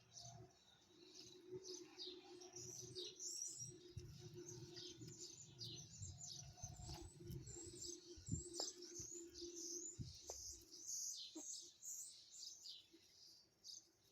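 Small birds chirping: many short, high, quick notes one after another, faint, over a steady low hum.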